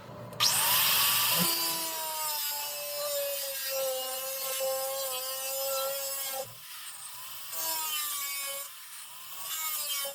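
Handheld grinder cutting or grinding metal. Its whine drops in pitch as it loads up, over a steady hiss, and it runs in one long pass followed by two shorter ones.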